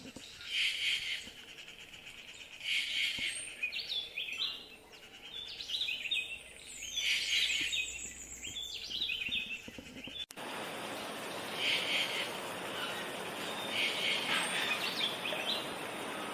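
Yucatan jay calling: short clusters of calls repeated every few seconds over steady background hiss, which grows louder after a cut about ten seconds in.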